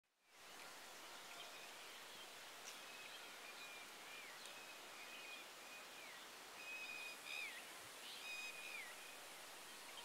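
Faint birdsong over a steady hiss: a bird repeats a short whistled note that drops in pitch at its end, every second or so, with a few higher chirps near the middle.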